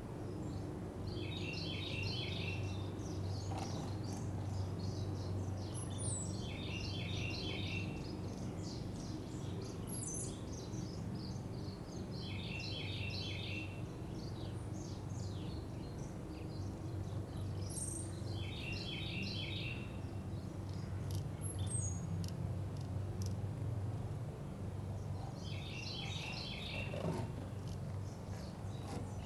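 A songbird sings the same short phrase of quick notes five times, about every six seconds, over a steady low hum of background noise.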